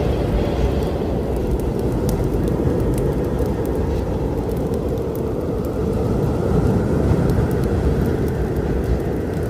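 A steady low storm rumble with wood fire crackling: scattered faint sharp pops over the continuous roar, and a faint howl that swells and fades partway through.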